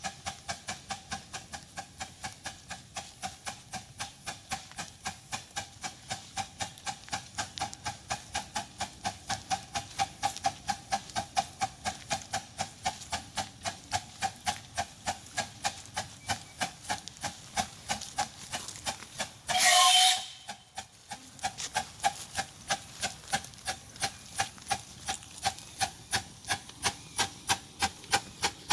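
Miniature live-steam locomotive running at a steady pace, its exhaust beating about three times a second. About twenty seconds in, a loud hiss of steam lasts about a second.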